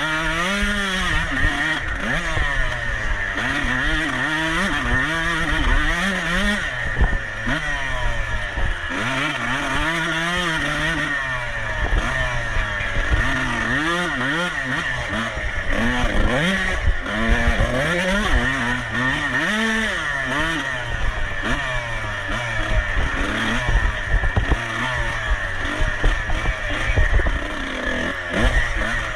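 Dirt bike engine being raced hard, revving up and dropping off again and again, its pitch rising and falling every second or two.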